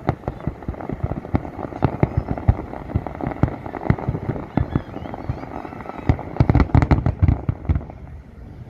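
Fireworks going off: a run of sharp bangs and crackles from bursting shells, coming thick and fast about six seconds in, then thinning out near the end.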